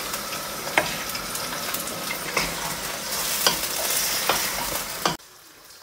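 Pieces of boneless chicken sizzling as they fry in hot oil in a pan, with a few sharp knocks of the stirring spoon against the pan. The sizzle cuts off suddenly about five seconds in.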